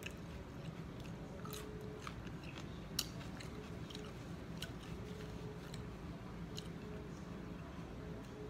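A person chewing and biting into sweet pepper close to the microphone: scattered crisp mouth clicks and crunches, one sharper click about three seconds in.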